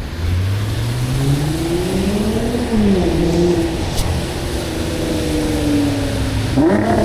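A car accelerating past, its engine pitch climbing, dropping suddenly at a gear change about two and a half seconds in, easing off, then rising again near the end as it or another car pulls away.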